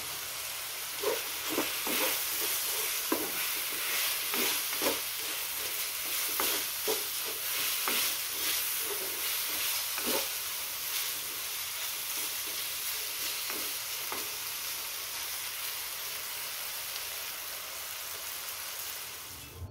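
Chicken pieces with onion and minced garlic sizzling in a hot stainless steel wok, with a spatula scraping and knocking against the pan in irregular strokes. The stirring stops about two-thirds of the way through, leaving the steady sizzle.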